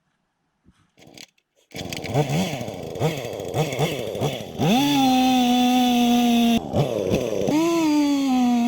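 Small two-stroke chainsaw coming in abruptly about two seconds in, revved in quick blips, then held at full throttle in a steady high-pitched run with a brief drop and return, as when cutting through wood.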